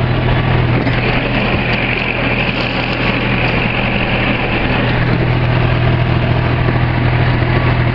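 Tractor engine running steadily as the tractor drives along, a constant low hum with a hissy higher sound over it for the first few seconds.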